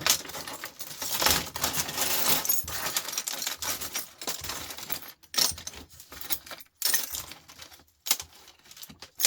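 Small metal screws and parts rattling and clinking as they are handled and sorted: a dense clatter for the first few seconds, then a handful of separate clicks.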